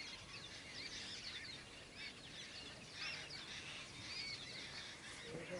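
Faint chorus of small birds chirping: many short, quick chirps that rise and fall, overlapping throughout.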